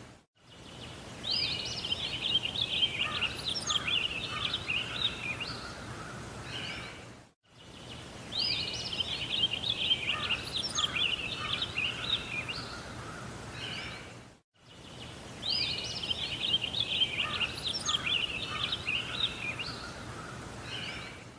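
Bird song: a songbird's quick run of chirps and warbles over steady outdoor background noise. The same short recording plays three times in a loop, each pass fading out and back in.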